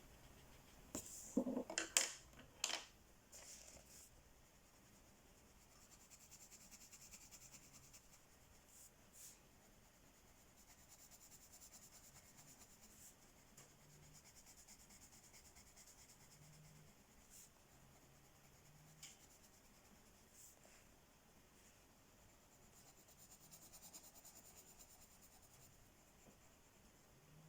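Coloring strokes on paper, a faint scratchy shading sound coming and going in stretches of a few seconds. A few sharp clicks or taps in the first three seconds, as of a coloring tool being handled or set down.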